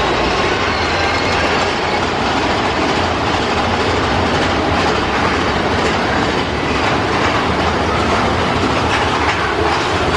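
Big Thunder Mountain Railroad mine-train roller coaster running along its track: a steady, loud rumble and clatter of the cars' wheels on the rails.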